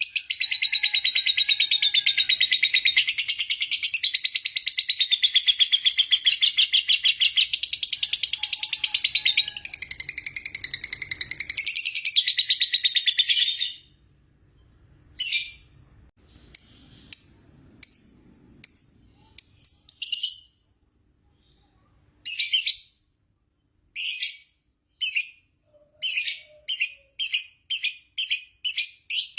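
Lovebird's 'ngekek': a long, unbroken run of rapid, shrill chattering notes lasting about fourteen seconds, which stops abruptly. Short chattering bursts with gaps between them follow, coming faster and closer together near the end.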